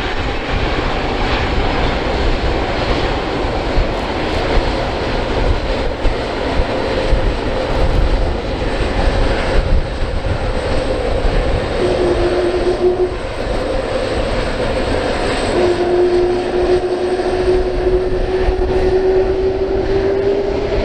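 McDonnell Douglas MD-11F freighter's three jet engines at takeoff thrust: a loud, steady rumbling noise, with a humming tone that comes in about twelve seconds in and rises slightly toward the end.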